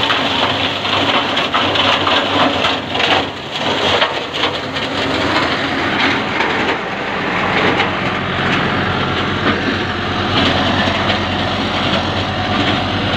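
A tractor-driven branch shredder running, crunching and cracking through branches for roughly the first half. It then settles into a steadier hum of tractor engine and spinning shredder.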